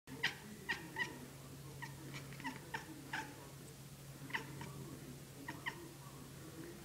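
Kitten chattering at birds: about a dozen short, quick chirps in irregular clusters, over a steady low hum.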